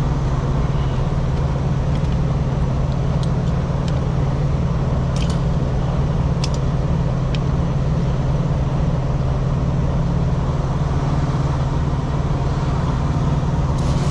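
Steady low drone of an idling truck engine, unchanging in level, with a few faint light clicks a few seconds in.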